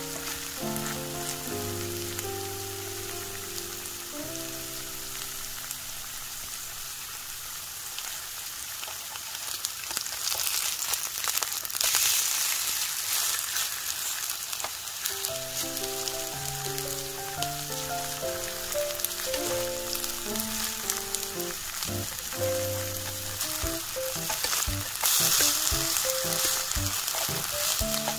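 Julienned potato strips sizzling in hot oil in a nonstick frying pan, with small clicks as a metal spatula presses and turns them. The sizzle swells louder about ten seconds in and again near the end.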